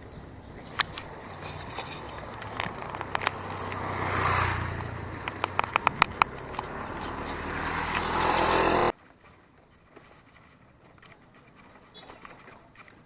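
A motor vehicle's engine running, swelling and fading with a low hum, with a run of sharp clicks and rattles partway through. The sound cuts off abruptly about nine seconds in, leaving only faint outdoor sounds.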